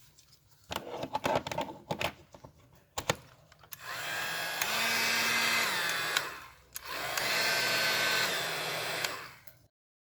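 A few handling clicks, then the Joy 809 hair dryer is switched on twice, its motor and fan running with an airy whoosh for about two and a half seconds each time. In each run the hum steps up in pitch and then drops back before the dryer is switched off.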